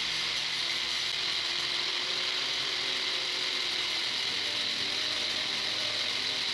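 Steady, fast mechanical ratcheting that runs on without a break at an even level.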